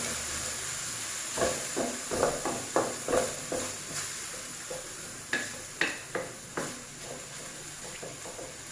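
Spatula scraping and knocking in a pan, stir-frying minced pork with Thai basil over a sizzle. The sizzle dies down gradually, with the heat just turned off.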